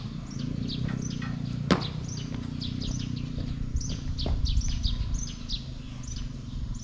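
Birds chirping: short, high, falling chirps repeated about two a second, over a low steady rumble, with one sharp click near the middle.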